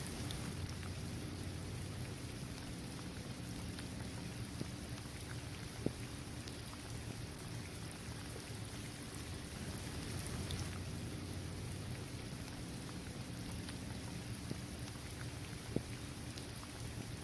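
Steady rain falling on a paved basketball court, trees and grass. A couple of single louder drops tick sharply about six seconds in and again near the end.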